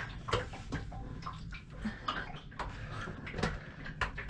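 Scattered, irregular knocks, clicks and rustling, the handling and shuffling noise of someone moving about and working in a cramped space.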